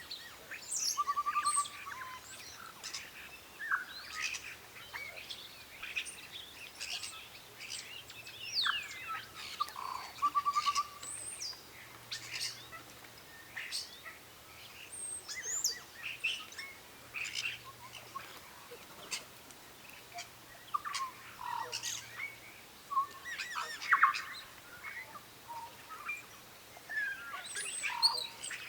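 Several birds calling and singing, with many short chirps and whistles overlapping throughout. Twice, about a second in and again about ten seconds in, a rapid low trill stands out.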